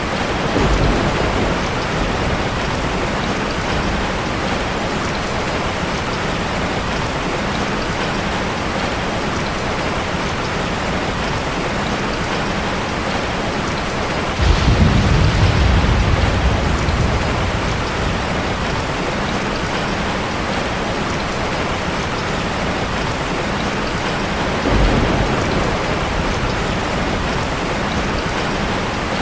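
Heavy rain falling in a steady hiss. Low rumbles of thunder come three times: briefly at the start, loudest around the middle for a couple of seconds, and briefly near the end.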